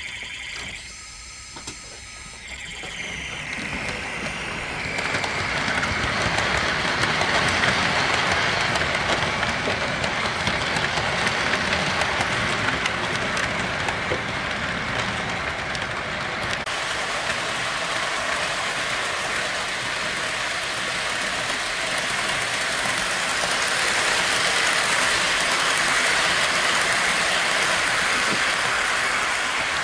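Model train (Walthers F40PH locomotive pulling coaches) running around the layout track: the motor and the metal wheels rolling on the rails make a steady rolling rattle. The noise builds up about three seconds in and then holds steady.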